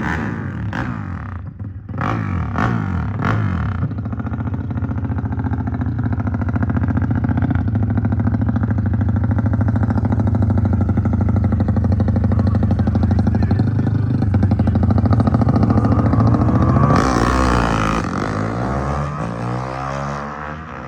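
Motorcycle engine running hard: a few quick throttle blips and shifts at first, then a long steady pull that builds in loudness. About 17 seconds in, the pitch drops as the bike passes, and the sound fades away toward the end.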